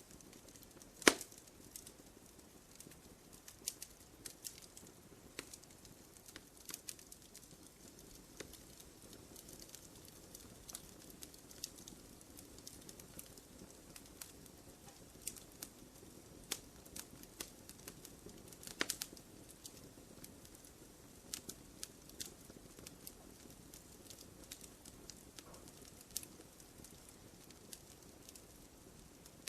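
Wood fire crackling in a fireplace: irregular small snaps and pops over a soft low hiss of the flames, with a sharp louder pop about a second in and another a little past the middle.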